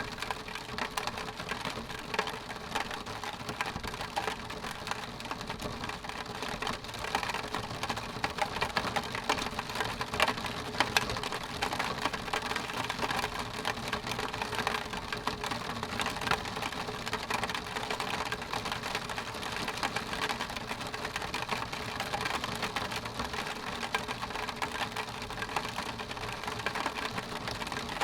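Rain on a window: a steady, dense patter of drops striking the glass, like a fast run of small ticks.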